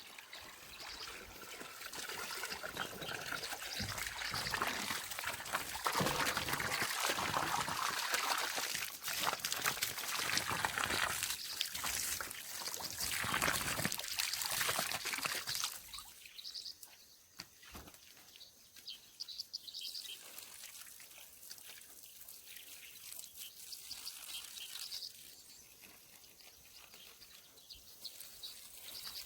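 Water splashing and trickling from a garden hose that pigs are chewing on. It goes on for about sixteen seconds, then drops to a faint background.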